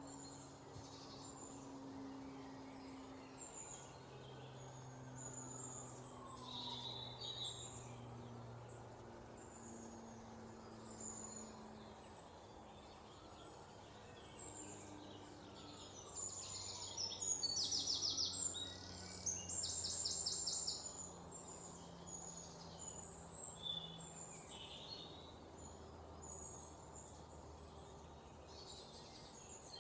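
Several small songbirds chirping and calling in a steady chorus of short high notes. A little past halfway, a fast trill of rapidly repeated notes comes in twice and is the loudest sound.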